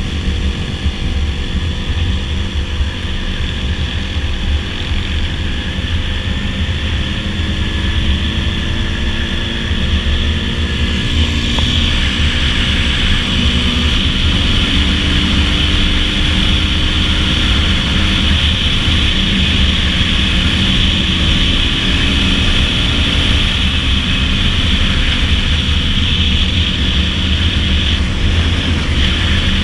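Dirt bike engine running steadily at road speed, its pitch shifting slightly now and then, with wind rushing over the microphone that grows louder about a third of the way in.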